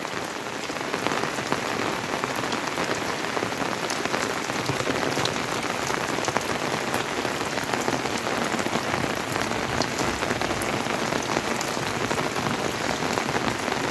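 Steady monsoon rain falling, a continuous hiss dotted with many small drop ticks.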